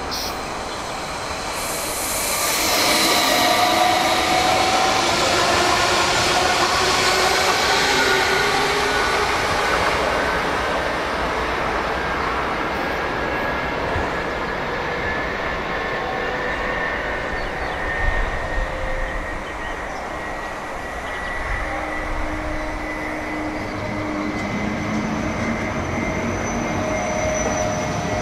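Trains at a station platform: for the first several seconds a loud rushing pass with several falling whining tones, then a Deutsche Bahn ICE high-speed train approaching and pulling slowly in along the platform, a thin whine rising slowly as it nears.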